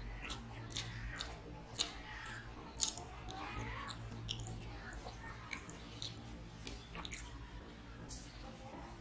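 A man chewing mouthfuls of rice and chicken curry, with many short wet mouth clicks and smacks, over a low steady hum.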